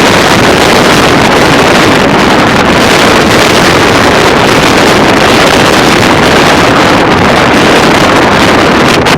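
High wind gusting to around 60 mph, roaring and buffeting the microphone with a loud, steady rumble.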